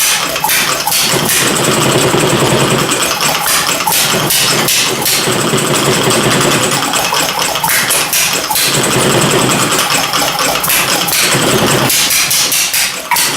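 Homemade inverted vertical hit-and-miss engine running warm: a steady mechanical clatter with a sharp firing beat every second or so, irregularly spaced.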